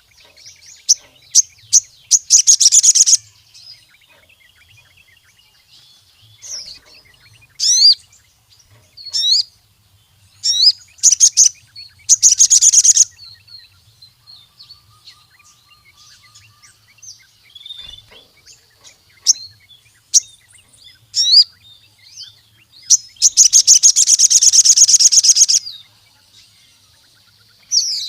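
Crimson sunbird (sogon) singing: scattered high-pitched chirps broken by fast trills, the longest running about two and a half seconds near the end.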